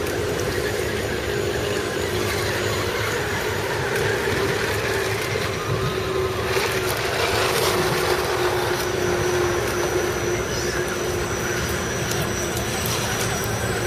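Electric motor and gearbox whine of radio-controlled off-road trucks driving, a steady mid-pitched whine over rough noise, with a faint high whine joining about nine seconds in.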